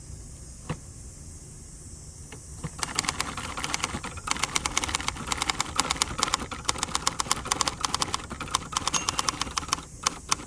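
A 1967 Hermes 3000 manual typewriter being typed on: a few single keystrokes, then from about three seconds in a fast, steady run of type bars striking the platen, stopping shortly before the end.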